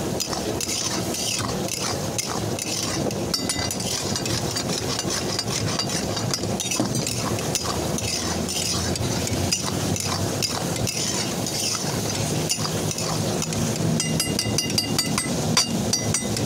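Meat frying in oil and gravy in a large wok while a metal spatula stirs it: steady sizzling with repeated scrapes and clinks of the spatula against the pan. A few ringing clinks come near the end.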